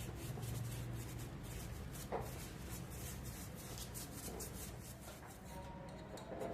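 Quick, irregular scratchy strokes on a hard surface, several a second, thinning out near the end, over a low steady hum.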